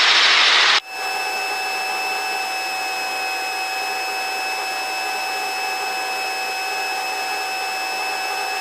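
Helicopter in cruise flight heard from inside the cabin: a steady whine of several fixed tones over an even hiss. Under a second in, a louder rush of noise cuts off abruptly, leaving the steady cabin sound.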